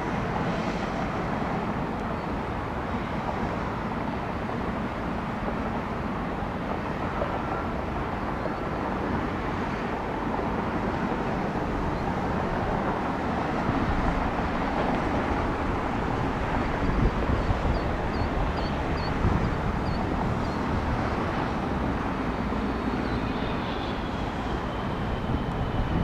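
Jet airliner engine noise: a steady rush, with a high whine that slides slowly down in pitch near the end.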